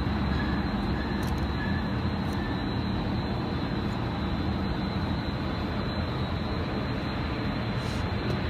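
Steady, even engine-like running noise, a low rumble with hiss that holds at one level throughout.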